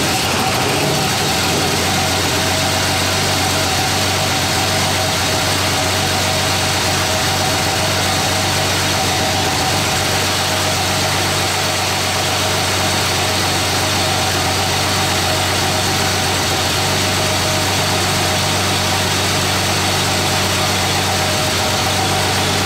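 A 1984 Ford Bronco II's 2.8-litre V6, running on a newly fitted Holley Sniper EFI, idling steadily at an even pitch, with a steady higher whine over the engine note.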